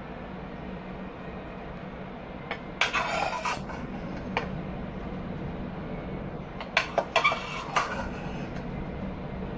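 A metal spoon scraping and clinking against a pan as cooked vegetables are scooped out. It comes in two short bouts, about three seconds in and again about seven seconds in, over a steady low hum.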